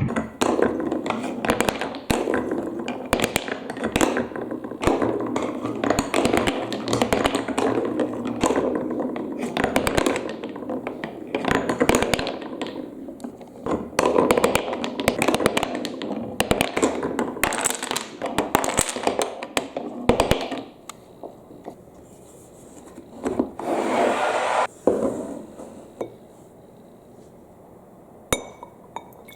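Marbles rolling and clattering through a plastic block marble run carrying water, with many sharp clicks of marbles striking the track. The clatter dies away about 21 seconds in; a short rush follows about three seconds later, and there is a single click near the end.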